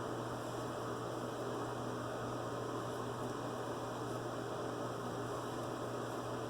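Steady low hum with a hiss, unchanging throughout, with no distinct events.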